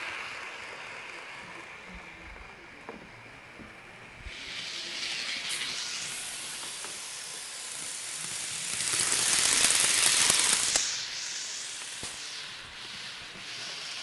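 Steam locomotive hissing as it vents steam, starting about four seconds in, swelling to its loudest around ten seconds in, then falling back to a lower hiss.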